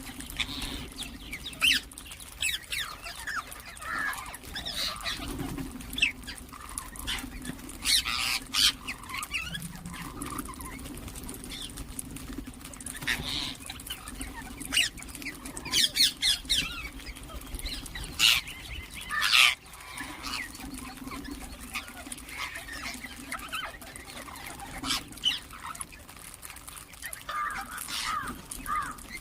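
Ringneck parakeets (rose-ringed parakeets) squawking and chirping: many short, sharp calls come irregularly throughout. A faint low steady hum runs underneath.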